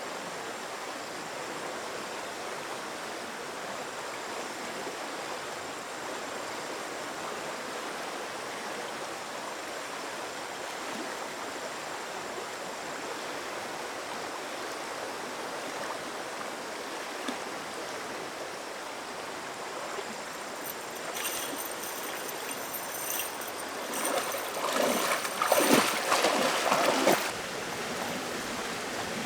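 Steady rush of flowing stream water. Near the end, a few seconds of louder, irregular knocks and splashy noise rise over it.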